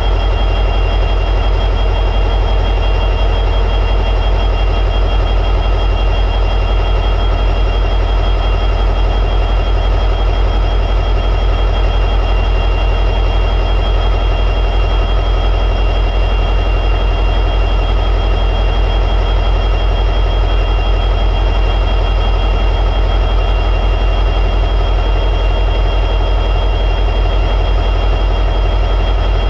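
EMD 710G3B two-stroke diesel prime mover of an SD60E locomotive running at high idle, a steady heavy rumble with a constant high-pitched whine above it.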